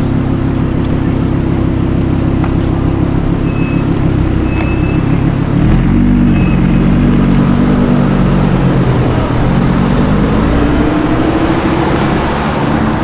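A car engine running close by, idling steadily at first. About six seconds in the revs climb in steps as it pulls away, ease back, then rise again near the end.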